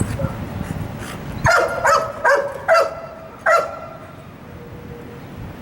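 A dog barking five times in quick succession, four close together and then one more after a short pause.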